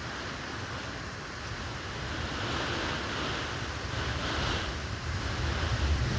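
Strong wind gusting, with a low buffeting rumble on the microphone, swelling louder in the second half.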